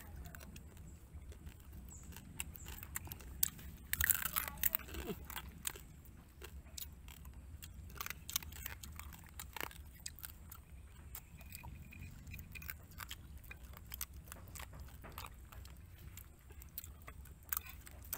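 Close-up eating of cooked crab: chewing and crunching on crab shell, with many short crisp clicks and a denser cluster of crunches about four seconds in.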